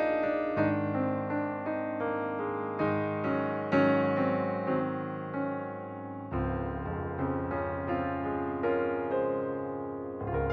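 Soft background piano music, a slow melody of single notes over sustained chords.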